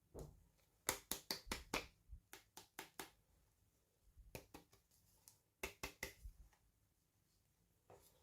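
Clusters of sharp, quick clicks and taps from hands handling small plastic toy pieces and packaging, in several short runs with quiet gaps between them.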